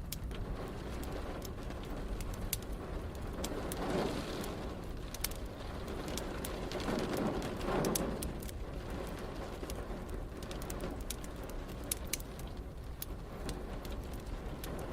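Wood fire crackling with frequent sharp pops over a steady low bed of rain and rumble, with two swelling rumbles of distant thunder about four and eight seconds in.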